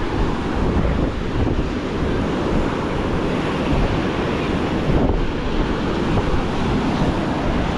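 Ocean surf washing on a sandy beach, with wind buffeting the microphone in a steady low rumble.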